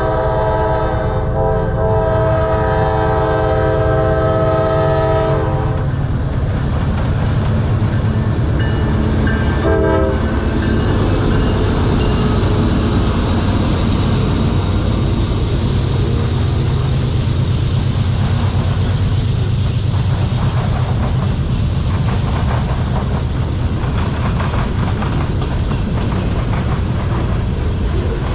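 Diesel freight locomotive's horn sounding one long chord for about six seconds, then a short toot about ten seconds in, over the steady low rumble of the locomotives and the clatter of freight cars rolling past on the rails.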